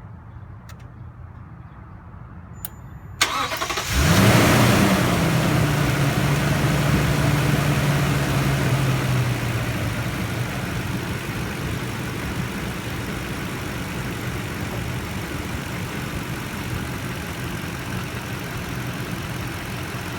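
Toyota Tundra TRD engine starting after a brief crank, flaring up, then settling from a fast idle to a steady lower idle. It is running on Toyota synthetic oil, which the owner says got rid of the ticking noise it had after a Mobil 1 0W-20 oil change.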